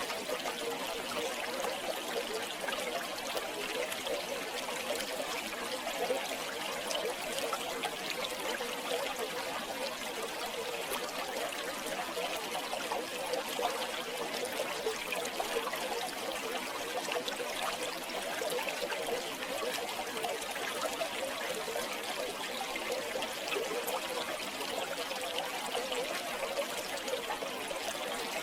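River water flowing and trickling steadily, a continuous burbling rush with no pauses.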